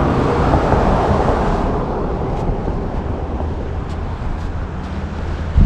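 Wind buffeting the microphone outdoors, a low rumble with a hiss that dies down over the first couple of seconds.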